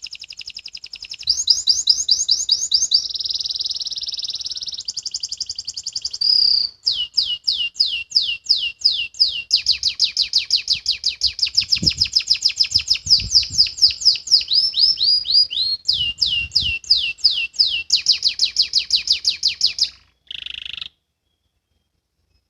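Domestic canary singing fast trills: runs of rapidly repeated sweeping notes, switching to a new phrase every few seconds. The song stops about twenty seconds in.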